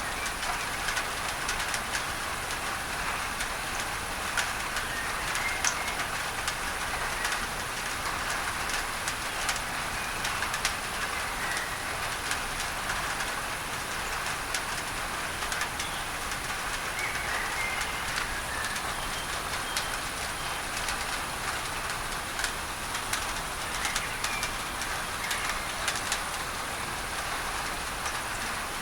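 Steady rain on a tin roof: a dense hiss with many sharp drop ticks, mixed with a layer of steady masking noise. Birds chirp briefly now and then in the background.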